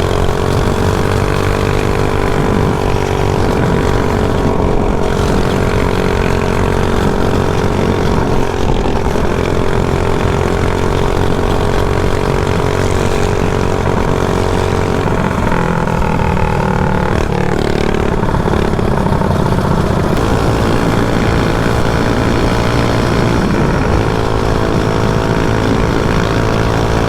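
Mini bike's small engine running steadily under way. Its pitch dips and changes a little past the middle, then settles again.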